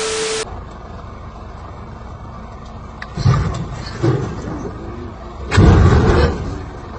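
A short burst of hiss at the start, then a vehicle engine running with a steady low rumble that swells louder three times, the last and loudest a little over five seconds in.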